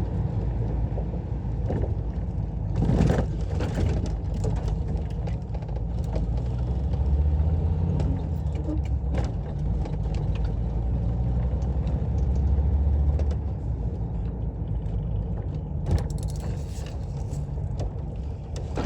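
VW T3 van's engine driving under load, a steady low drone that swells twice as it pulls harder, about seven and twelve seconds in. The van has an exhaust leak, which the owner hopes is what makes it sound like it is misfiring.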